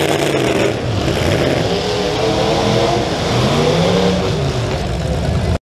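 Demolition derby car engine running loud through short open exhaust pipes, revving up and dropping back several times. The sound cuts off abruptly near the end.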